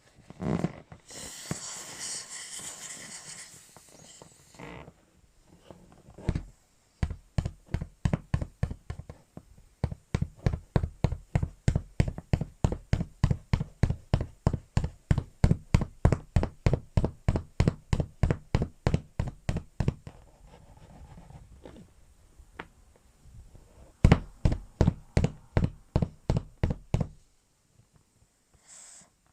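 Rapid series of dull thuds, about four to five a second, in two long runs, with a few seconds of hissing air about a second in.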